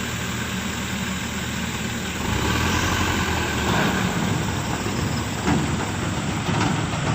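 A vehicle or machine engine running steadily, getting louder about two seconds in.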